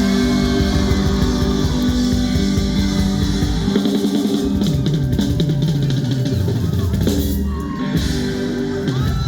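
Live rock band playing an instrumental passage after the last sung line of a song: drum kit with guitars and bass, no vocals.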